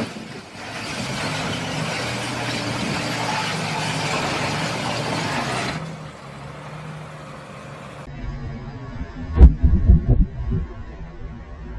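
Car road noise, engine and tyres with a steady low hum, that stops about six seconds in. Near the end comes a run of heavy low thumps; the loudest, a sharp knock, falls about nine and a half seconds in.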